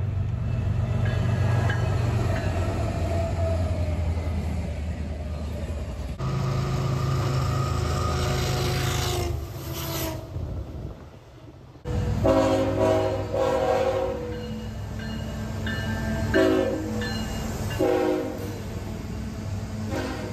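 Diesel freight train locomotives running past with a steady low engine rumble, broken by abrupt cuts between passages. In the second half the locomotive air horn sounds in several short blasts: two close together, then two more spaced apart.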